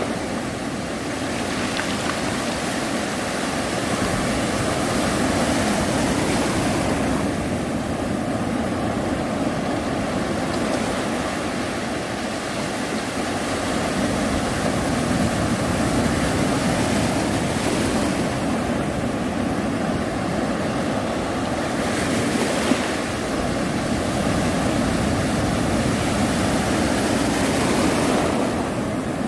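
Sea waves breaking on a beach: a continuous wash of surf, with a wave crashing in every five to ten seconds, about five times.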